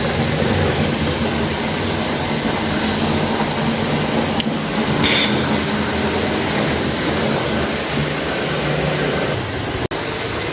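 Water running steadily from a tap into a bathtub, filling a foamy bubble bath.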